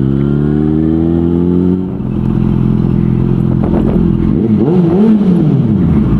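Motorcycle engine pulling up through the revs with the pitch climbing steadily, then a brief drop in level and pitch about two seconds in, as at a gear change. It then runs on with the pitch rising and falling.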